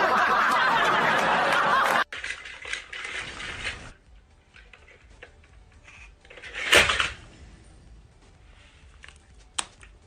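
People laughing: loud and dense for about two seconds, then stopping abruptly, followed by quieter scattered sounds and one short loud outburst about seven seconds in.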